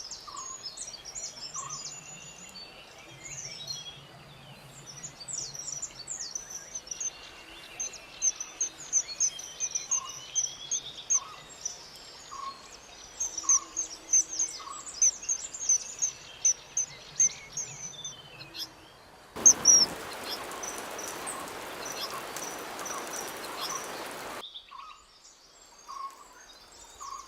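Common kingfisher calls: short, shrill, high whistles repeated many times, at times two or three a second, with fainter lower bird notes beneath. About two-thirds of the way through, a steady rushing hiss comes in suddenly and cuts off about five seconds later.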